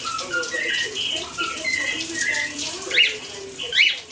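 Cockatiel whistling a run of short, stepped notes over the hiss of running shower water, then giving two sharp rising chirps near the end in the style of budgie calls.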